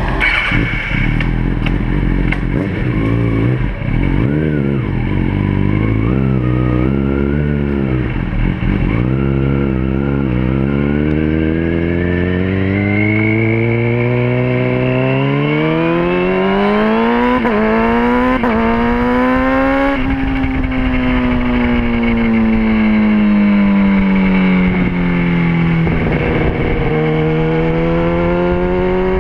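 Sport motorcycle engine heard close up from the bike's tail: wavering at low revs as it pulls away, then rising steadily in pitch as it accelerates for about ten seconds, easing off and falling from about two-thirds of the way through, and climbing again near the end.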